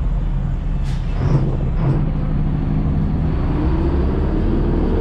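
Truck engine running with a deep, steady rumble that the onlooker calls sounding nice, like it's about to take off; its pitch climbs slightly near the end. Two short knocks about one and two seconds in.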